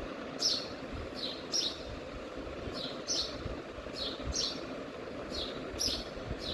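A small bird chirping repeatedly: short, high chirps, often in pairs, about ten of them over a steady low background noise.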